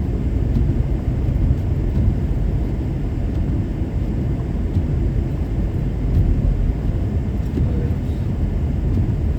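Steady low rumble of road and engine noise inside a moving car's cabin, its winter tyres running on a snow-covered road.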